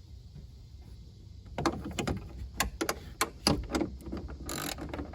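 Hand tools and metal parts clicking and knocking in the engine bay while the radiator and fan shroud are taken out. Irregular sharp clicks start about a second and a half in, with a short rasping burst near the end.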